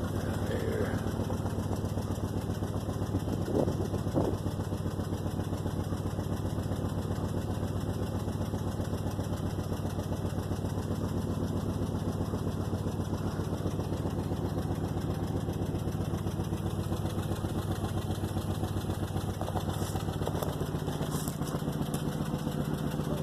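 An engine idling steadily, an even low hum with a fast regular pulse. Two brief louder sounds stand out about three and a half and four seconds in.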